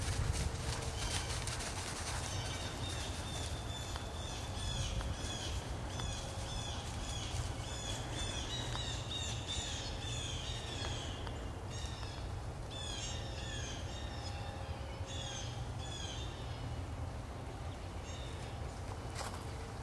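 Songbirds chirping and calling, a dense run of short, quick notes repeating over a steady low rumble.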